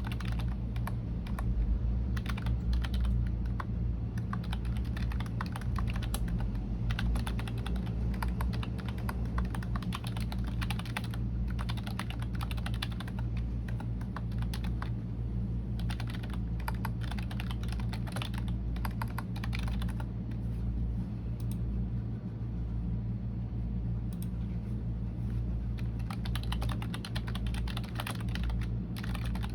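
Computer keyboard typing: quick, irregular runs of keystrokes with a few brief pauses, over a steady low hum.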